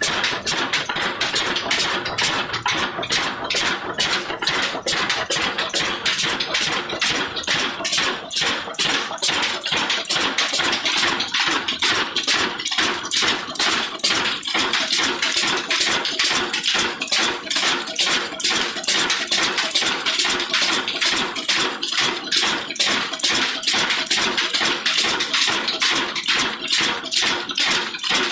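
Old Ruston Hornsby stationary diesel engine running at a steady pace, its beats coming as a fast, even run of knocks.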